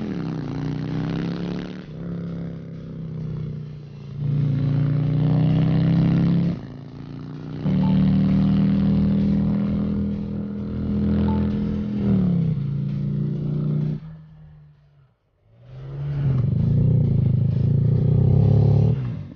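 Motorcycle engine running and revving, its note rising and falling in stretches. It drops away briefly about three-quarters of the way through, then comes back strongly before cutting off.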